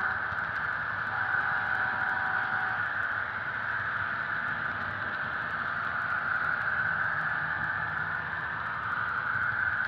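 HO-scale model train running: a steady whirring rolling and motor noise through a small speaker, with the Soundtraxx Tsunami sound decoder's EMD diesel engine sound from the SD70ACe locomotive. A faint tone drops out about three seconds in.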